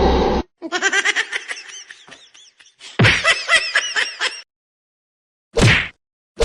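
Laughter in two quick bouts of rapid pitched pulses, followed near the end by short separate bursts about a second apart.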